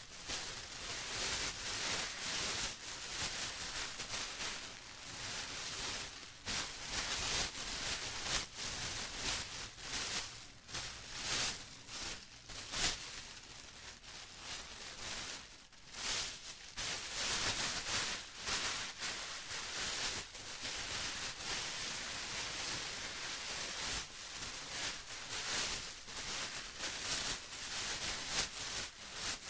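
Plastic being rustled and crinkled: a steady run of sharp, irregular crackles, with a brief lull about halfway through.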